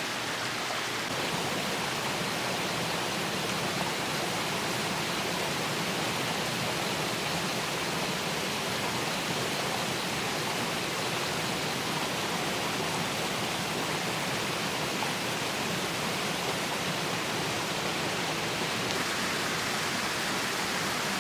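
Steady rush of running water: a constant, even hiss that does not change.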